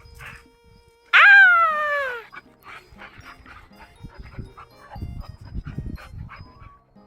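A dog gives one loud, drawn-out whine about a second in: it jumps up in pitch and then slides down over about a second. Softer scuffles and low thuds of play follow, with devotional music faint underneath.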